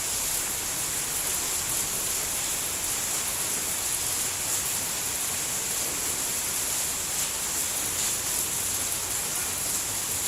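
Steady rain falling: an even hiss, brightest in the high range, with a few faint drop taps.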